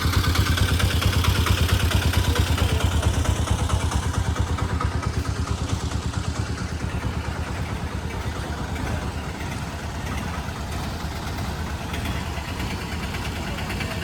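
Courtallam's Five Falls waterfall: water pouring and crashing in a steady, deep rumble with a fast flutter, easing slightly a few seconds in.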